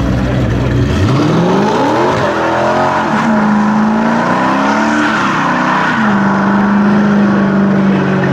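Car engine revving up sharply from idle about a second in and then held at high revs, easing off briefly midway before climbing again, with tyres squealing as in a burnout.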